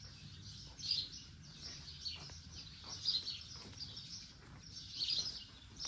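Small songbirds chirping outdoors, short high calls coming every second or two over a faint low background.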